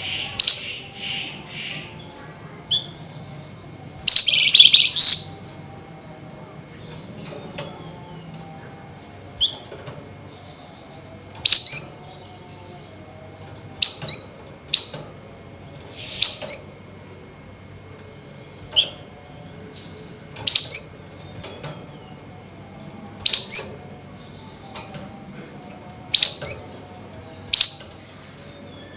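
A flamboyan songbird giving short, sharp, high-pitched chattering calls ('nyerecet'), in separate bursts every two to three seconds. The longest is about a second long, a few seconds in; the rest are brief, some ending with a falling note.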